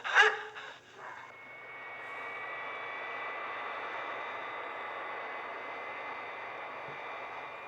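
Cartoon sound effect of an airplane engine droning steadily. It fades in about a second in, after a brief musical sting, and holds level from there.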